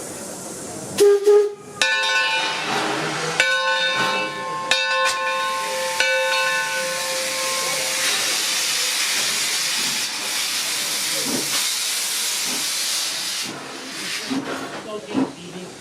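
Steam locomotive whistle, from the 1873 Mason Machine Works locomotive Torch Lake: a short toot about a second in, then a few more blasts, the last held for several seconds. Loud hissing of escaping steam follows and cuts off near the end.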